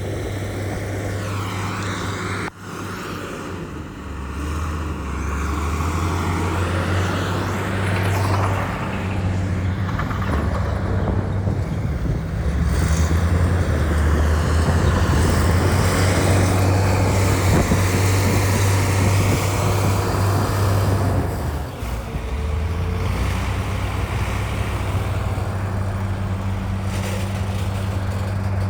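Heavy diesel engine of earthmoving machinery running under load, a continuous low hum that grows louder a few seconds in, eases briefly past twenty seconds, then runs on steadily.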